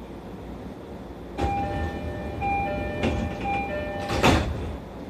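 Door chime of a JR East E531 series train, a two-note signal repeating several times, then the sliding doors thud shut about four seconds in, over the train's steady low hum.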